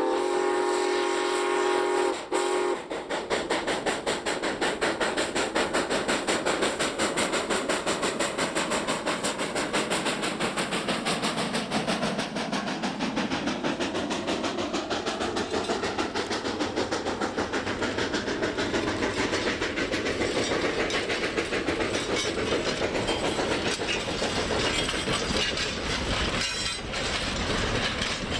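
Steam locomotive No. 93 blows its steam whistle for about two and a half seconds at the start. It then works past hauling an ore train, with rapid exhaust beats and the clatter of wheels on rail.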